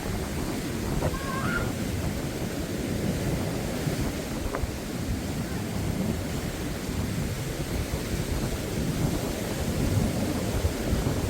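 Wind buffeting the microphone in a low, uneven rumble over the steady wash of sea surf.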